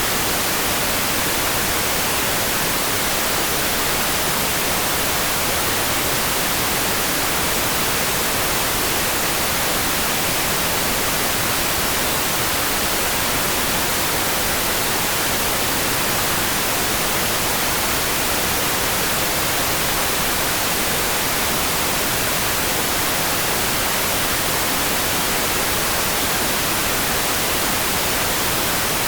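Steady rain sound: an even, unbroken hiss, strongest in the high range, with no single drops or thunder standing out.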